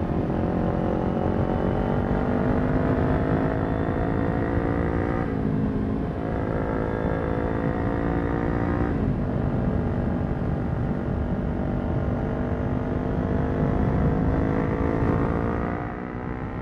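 Kawasaki Ninja 400's parallel-twin engine through a Yoshimura exhaust, accelerating under way. The pitch climbs and drops sharply at two upshifts, about five and nine seconds in, then holds fairly steady and eases off near the end.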